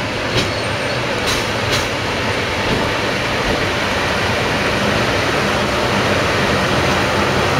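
ED76 electric locomotive hauling 14 series sleeper coaches rolling past, a steady loud train noise with a few sharp clicks in the first two seconds.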